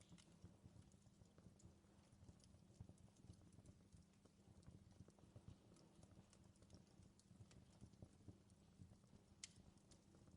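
Fireplace fire crackling: quiet, irregular pops and snaps over a low, steady rumble of burning.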